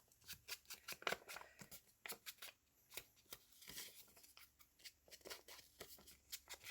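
Faint, irregular taps and soft rustles of paper being handled at a craft table as an ink pad is dabbed along the paper's edges, with a brief rustle a little under four seconds in.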